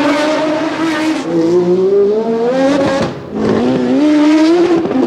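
Brabham BT53's BMW M12/13 1.5-litre turbocharged four-cylinder Formula 1 engine under load. Its pitch climbs steadily, falls sharply about three seconds in at a gear change or lift, then climbs again, with a short dip near the end.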